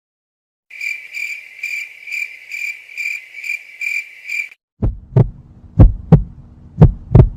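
A high, pulsing chirp repeats about twice a second for some four seconds. It is followed by a heartbeat sound effect: loud low double thumps, lub-dub, about once a second over a faint low hum.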